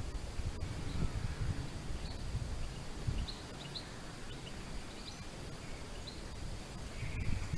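Small waves washing on a shore: a steady hiss with low surges of wash. A few short, high bird chirps come in the middle and near the end.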